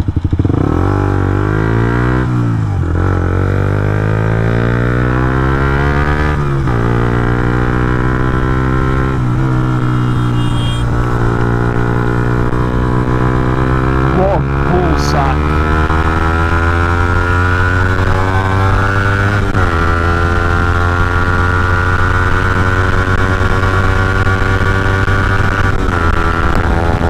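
Suzuki GSX-R125 single-cylinder motorcycle engine accelerating through the gears. Its pitch climbs in each gear and drops sharply at each of several upshifts.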